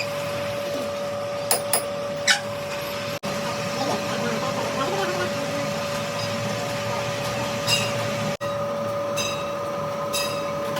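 A steady machine hum holding one pitch, with a few sharp light clicks now and then.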